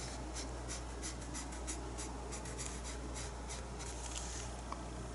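Paintbrush loaded with acrylic paint brushing short, quick strokes on the painting surface to lay in fur hairs, a soft repeated brushing about three or four strokes a second.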